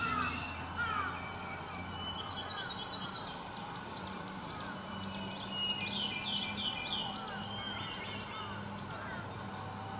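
Wild birds singing and calling: short downward-sliding whistles in the first second, then a quick run of high chirping notes for several seconds, over a low steady hum.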